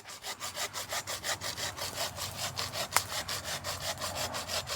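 Hand saw cutting through a tree branch in quick, even back-and-forth strokes, about four or five a second, with one sharper crack about three seconds in.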